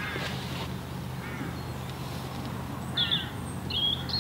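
Birds calling: a few short calls about a second or more apart, with a higher whistled note near the end, over a low steady hum.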